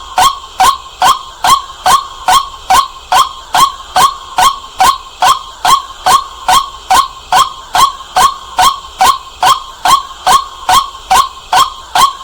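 White-breasted waterhen calling, a steady series of short 'kwak' notes at about three a second, evenly spaced and unbroken.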